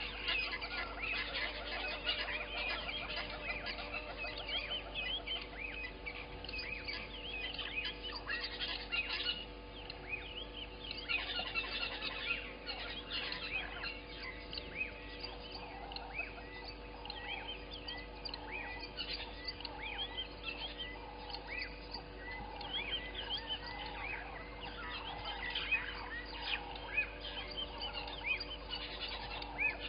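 Wild birds chirping and calling over one another, with a run of evenly spaced short chirps, about two a second, in the middle. A steady faint hum lies underneath.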